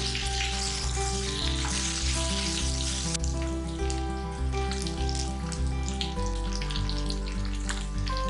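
Potato cubes frying in sesame oil in a pan: a steady sizzle with scattered crackles, heaviest in the first three seconds, under background music.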